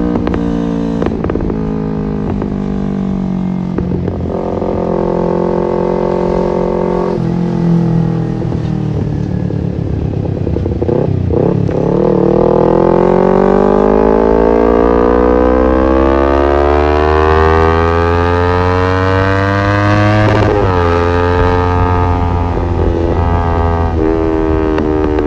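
Kawasaki Ninja 250FI's parallel-twin engine running through an aftermarket R9 H2 SS exhaust, under way. The revs hold, then fall away, then climb steadily for about eight seconds in one long rising note. Near the end the pitch drops suddenly, as at a gear change, and the engine runs on at steadier revs.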